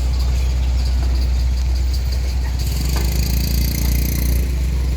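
Motor vehicle engine running at a low steady rumble. A knock comes about three seconds in, with a hiss over the next couple of seconds.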